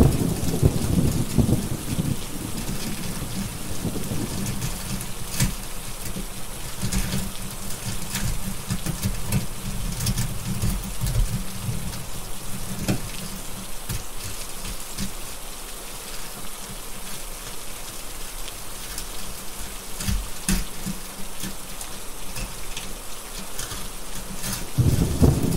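Steady rain with rolling thunder: a rumble at the start dies away, another swells and fades around the middle, and a fresh one begins near the end. Scattered sharp crackles of a wood fire sound through the rain.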